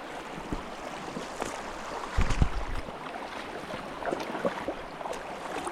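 Boots wading through a shallow, flowing creek: irregular splashes and sloshing of water around the legs over the rush of the stream, with one heavier splash or thump a little over two seconds in.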